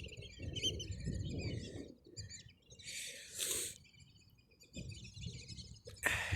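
Small birds chirping and twittering in quick high notes over a low rumble, with a brief rushing noise about three seconds in.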